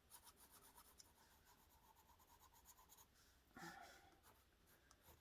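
Colored pencil shading on paper: faint, quick scratching strokes, with a brief louder sound about three and a half seconds in.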